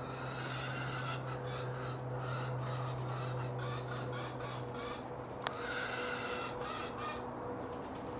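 Crows cawing: a run of rough calls for the first few seconds, then another bout a little past halfway, over a steady low hum.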